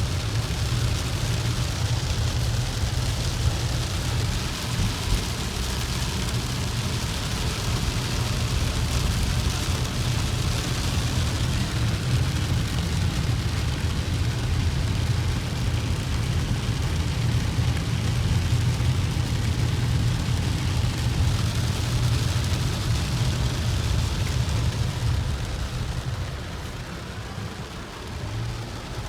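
Car driving in a rain storm: a steady low road rumble under the even hiss of rain and wet tyres, easing slightly near the end.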